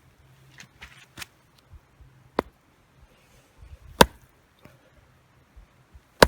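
Three sharp chopping strikes on a piece of firewood, about a second and a half apart, each louder than the last: an attempt to split a log that is hard to split.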